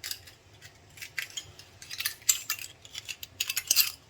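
Light metallic clinks and rattles, a loose run of sharp clicks that bunches up in the second half, as small metal objects are handled.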